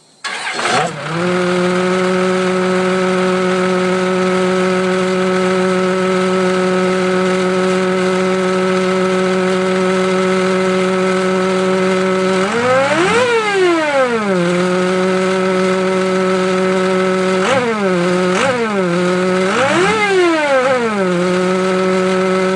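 Turbocharged engine starting and settling into a steady idle within about a second. It is revved once about halfway through and blipped three times in quick succession near the end, the pitch rising and falling each time.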